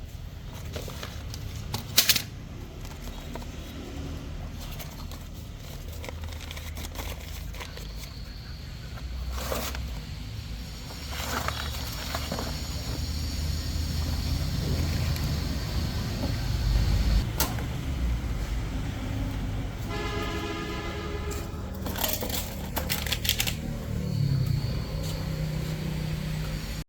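A steady low rumble with occasional sharp metallic clicks and knocks. About twenty seconds in, a horn-like tone sounds for about a second.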